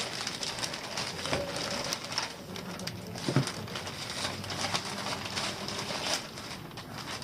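Packaging and parts being handled during an unboxing: scattered rustles and light clicks, with a brief low tone about three seconds in.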